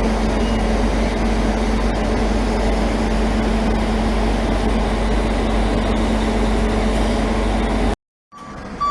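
A large engine or machine running steadily and loudly, with a constant hum over a deep rumble that does not change.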